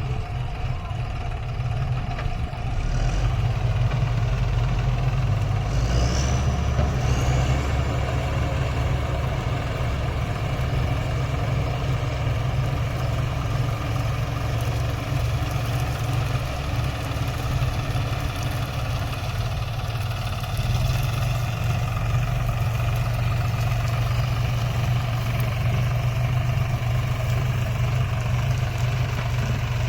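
Diesel engine of heavy farm machinery running steadily, getting louder about three seconds in.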